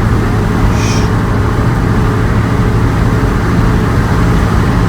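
Motor vehicle being driven: a steady low engine drone with road noise, even throughout.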